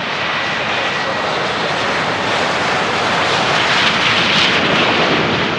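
Business jet's turbofan engines running at high power as the jet passes on the runway: a rushing jet noise that swells to its loudest about four seconds in, then eases slightly.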